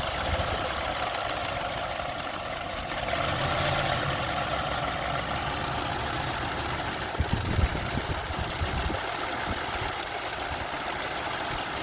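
2002 Honda CR-V's 2.4-litre four-cylinder engine idling very roughly, with an ignition coil unplugged so it runs on three cylinders. About three seconds in it grows louder, and a few low thumps come around seven seconds.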